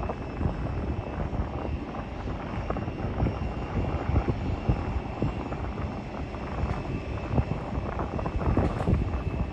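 Wind buffeting the phone's microphone in uneven gusts, over an aircraft engine running with a thin steady whine.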